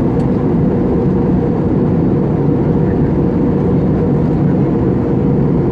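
Steady roar of an airliner's jet engines and airflow heard inside the passenger cabin, with a constant hum and no change in level.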